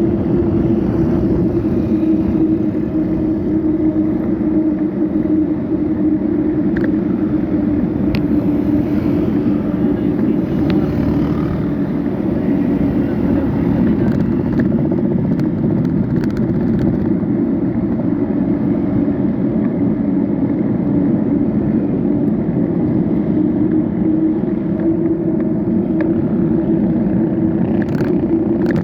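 Steady vehicle and road noise while riding along a road: a constant hum under a dense wash of road and wind noise, with a few faint clicks.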